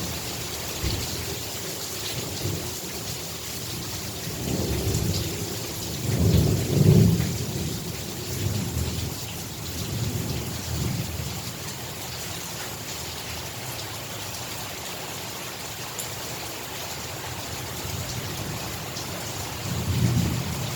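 Heavy rain falling steadily in a thunderstorm, with thunder rumbling low: a long roll that builds to its loudest about six to seven seconds in and fades, and another rumble near the end.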